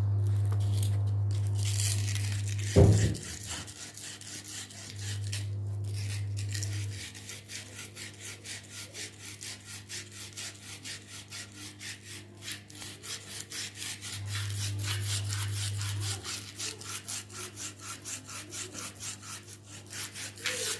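Back-and-forth scraping and rubbing on a ceiling fan's metal bearing seat as it is cleaned of dirt and burrs, about two to three strokes a second, with a low hum coming and going and one sharp knock about three seconds in.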